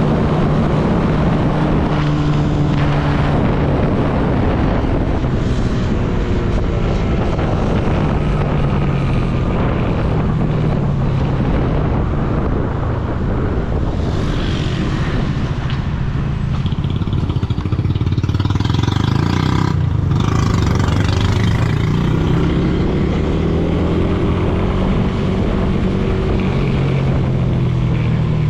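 Motorcycle engine running on the move, its pitch rising and falling as it speeds up and eases off, over wind and road noise. A brief higher-pitched tone sounds about two-thirds of the way through.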